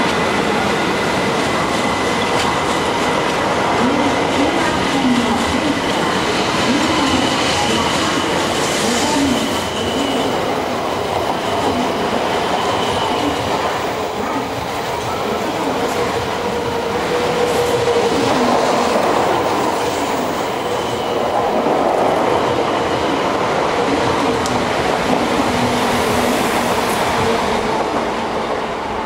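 A Tokaido Shinkansen 700 series train pulling out of the platform and gathering speed, its cars running past close by with steady rolling noise and a few faint high tones; the rear car passes near the end.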